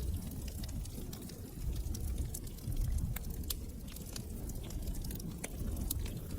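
Log fire crackling in a fireplace: irregular sharp snaps and pops over a low, steady rumble of the burning fire.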